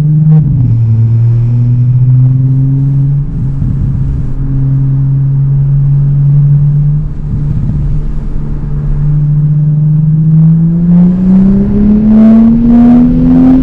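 Straight-piped exhaust of an Audi B9 S5's turbocharged V6 at a steady cruise, then climbing in pitch as the car accelerates from about ten seconds in, with a few short crackles near the end.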